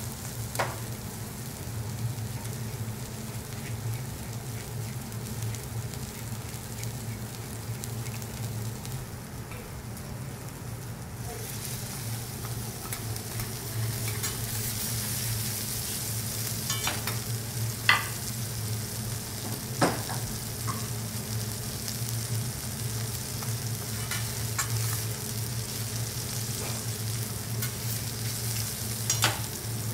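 Beef sizzling on a hot teppanyaki griddle, the frying hiss growing stronger about halfway through, over a steady low hum. A few sharp clicks come through, two close together past the middle and one near the end.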